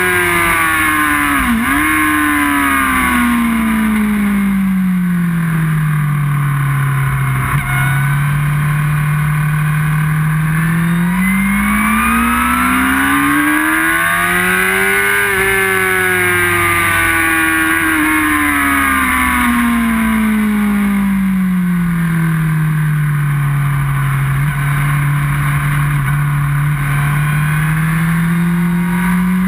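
Inline-four sport motorcycle engine heard from on the bike, its pitch falling slowly for several seconds, holding low, climbing again, then falling and holding low once more before rising near the end. A brief dip in pitch comes about two seconds in.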